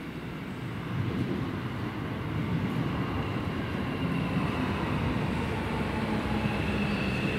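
Keio 8000-series electric commuter train pulling into the station: the wheel and track rumble grows louder as it approaches, and a steady whine from the train comes in near the end as it brakes to stop.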